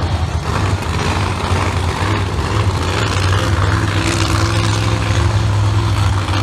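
Monster truck engines idling with a loud, steady, low engine note.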